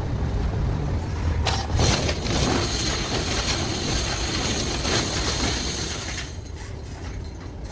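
Factory machinery at work: a low rumble under metallic clattering. A sharp click about a second and a half in is followed by a steady hiss carrying high tones, which fades about six seconds in.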